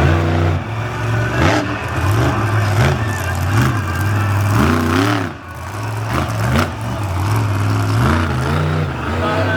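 Monster truck engine running hard, its pitch swelling up and falling back again and again in short throttle blips.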